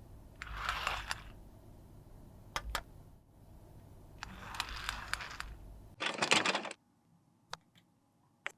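Three short bursts of scraping and crunching, the last and loudest about six seconds in, with a few sharp clicks and taps between them: makeup product being scraped, crushed and handled with small tools.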